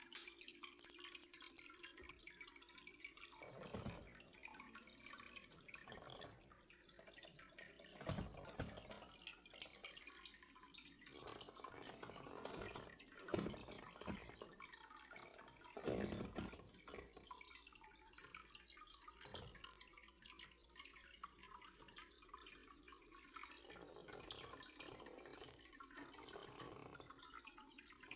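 Faint water dripping and trickling, broken by a few short soft knocks.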